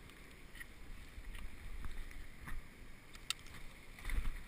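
Low rumble of wind and rolling noise on an action camera's microphone during a bicycle ride, with a few light clicks and rattles scattered through it.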